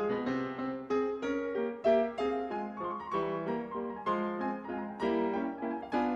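Soft background piano music: single notes and chords played at a gentle pace.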